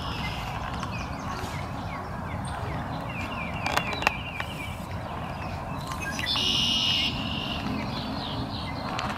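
Birds calling over a steady low background rumble: a run of short downward-sliding chirps about three to four seconds in, then a loud buzzy call lasting most of a second about six and a half seconds in.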